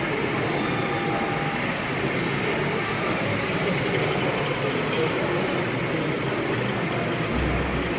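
Steady background chatter of many people in a large hall, with no single voice standing out, and a single light click about five seconds in.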